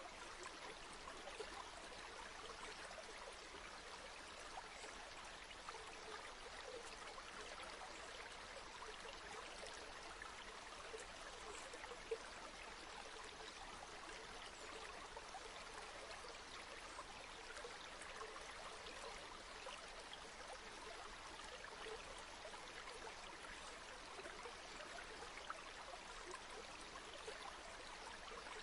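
A flowing river: water rushing steadily and evenly, with one brief tick about twelve seconds in.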